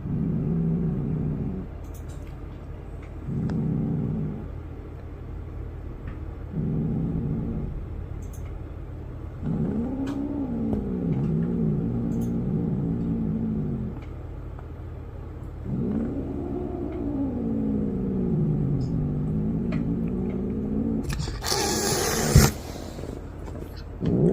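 Cat growling and yowling in low, wavering calls: three short ones, then two long drawn-out ones that bend up and down in pitch, the warning noises of a cat fight. Near the end there is a short, loud, hissing burst.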